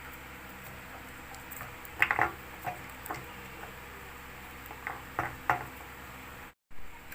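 Handling noise from insulating tape and wiring being worked on at a ceiling-fan capacitor joint: a few short clicks and rustles over a steady low hum. The sound cuts out for a moment near the end.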